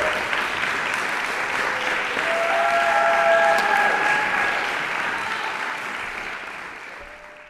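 Audience applauding, with a few held cheers rising above the clapping around the middle; the applause fades out at the end.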